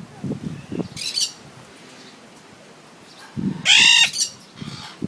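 Pet parrot calling: a short shrill screech about a second in, then a loud, clear squawk with several pitch layers about three and a half seconds in.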